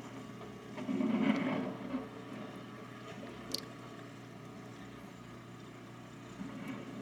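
Snowplow engine running in the distance, a low steady rumble that swells for about a second near the start and again near the end, with one short click in the middle.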